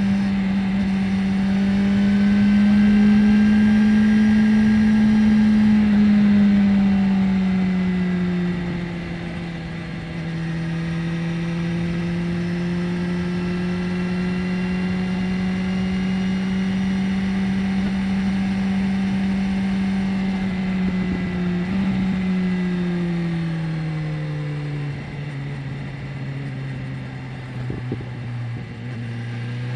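BMW S1000R's inline-four engine running at steady road speed. Its pitch rises a little in the first few seconds, eases off, then holds steady. In the last third the revs fall as the bike slows, and they pick up again near the end.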